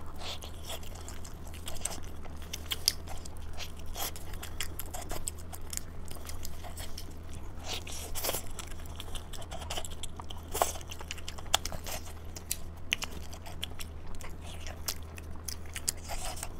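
Close-miked eating sounds: biting into and chewing a crisp-skinned food in chili sauce, with scattered sharp crunches and wet mouth clicks. A steady low hum runs underneath.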